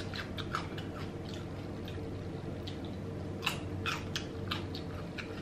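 Close-miked eating: chewing with irregular wet mouth clicks and smacks as a cucumber slice and then a piece of crab meat are eaten. A faint steady hum runs underneath.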